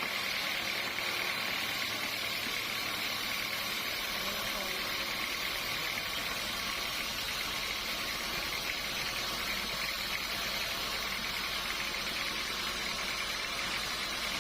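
Sawmill machinery running steadily, with a continuous hiss-like hum and a fine rapid flutter in the second half.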